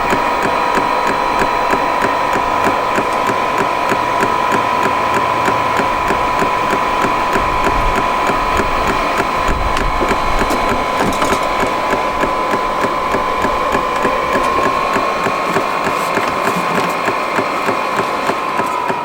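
VEVOR 8 kW Chinese diesel air heater in its start-up cycle: its blower fan runs with a steady high whine while the fuel pump ticks rapidly and evenly, trying to self-prime the fuel line. The whine drops slightly in pitch near the end.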